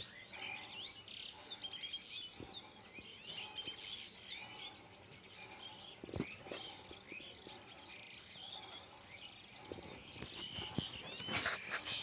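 Pet parrot chirping: a steady stream of short, high chirps that rise and fall in pitch, with a few sharp clicks or rustles near the end.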